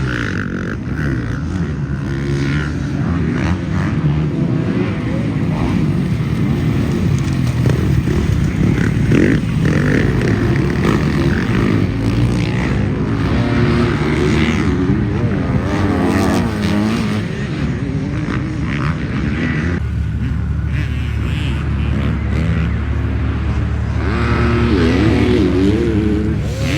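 Motocross dirt bike engines racing, revving up and down repeatedly as the bikes accelerate and shift around the track.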